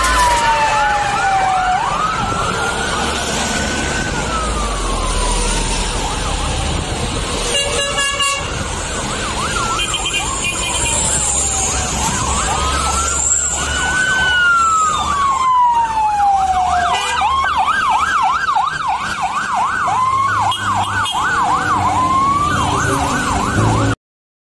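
Electronic sirens wailing in slow rising and falling sweeps, several at once. About 17 seconds in they switch to a rapid yelp, and the sound cuts off suddenly near the end.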